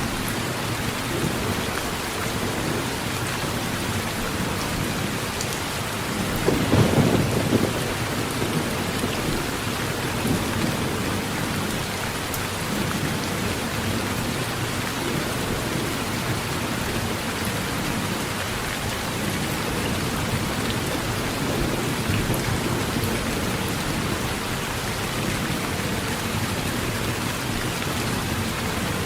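Heavy rain falling steadily on a metal roof, with a short burst of thunder about seven seconds in.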